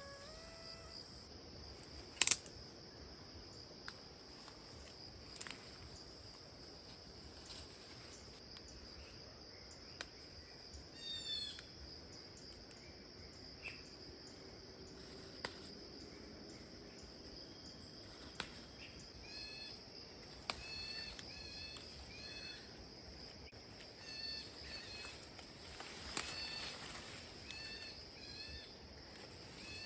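Outdoor ambience of a steady, high insect drone with a bird calling, its short notes repeating over and over in the second half, and a sharp click about two seconds in.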